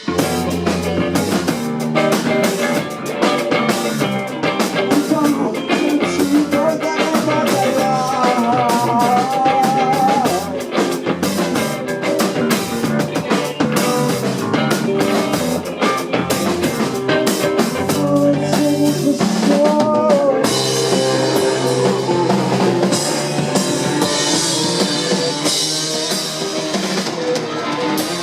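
Live rock band playing, with drum kit and electric guitar. The band comes in at full volume right at the start, and the cymbals wash in much brighter about two-thirds of the way through.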